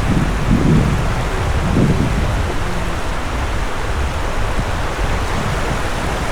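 Wind buffeting the microphone in gusty low rumbles over the steady hiss of surf on a beach.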